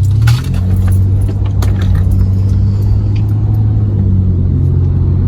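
Ford Escape's engine and road noise as a steady low drone inside the cabin while it is driven, with light clicks and jangles in the first couple of seconds.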